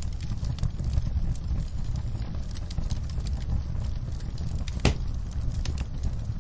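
Wood fire crackling in a fireplace: scattered sharp pops and snaps over a steady low rumble, with one louder pop about five seconds in.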